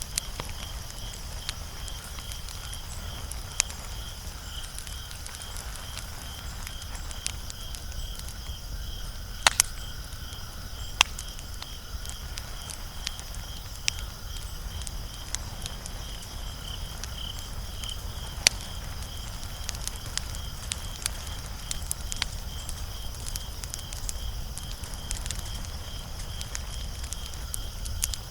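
Wood fire crackling with many scattered sharp clicks and a few louder pops around the middle. Underneath runs a steady, pulsing insect chorus, such as crickets.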